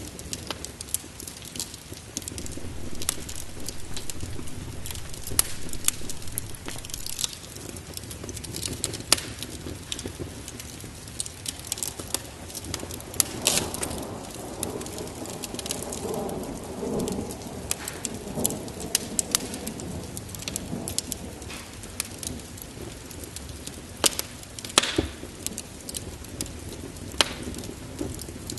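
Heavy rain falling steadily, with many scattered sharp crackles, and a rolling rumble of thunder about halfway through.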